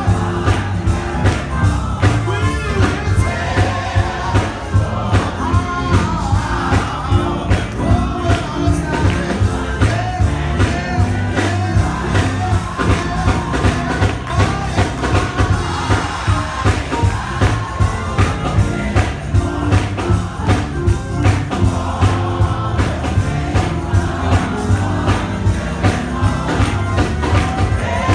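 Live gospel hymn music: a band with a steady beat and singing voices, a choir joining in.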